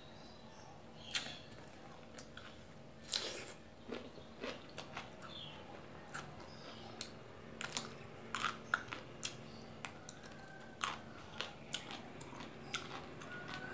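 Close-up mouth sounds of a person eating: chewing, with irregular crunches and many short, sharp clicks.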